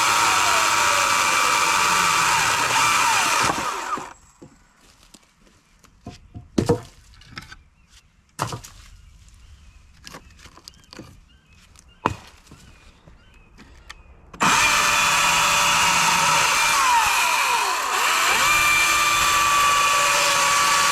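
EGO CS2005 battery chainsaw running and cutting firewood, its motor whine shifting in pitch under load. It stops about four seconds in, leaving a pause with a few sharp knocks, and starts again about fourteen seconds in and cuts on.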